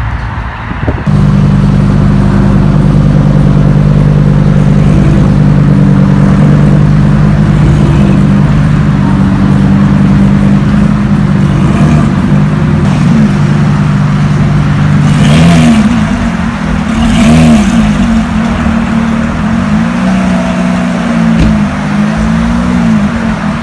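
Car engine running at a steady, loud idle, then revved up and down several times in the second half, its pitch rising and falling with each rev.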